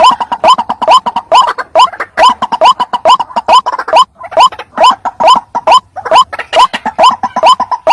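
White-breasted waterhen calling: a loud, unbroken run of short rising 'kruak' notes, about three a second and unevenly spaced.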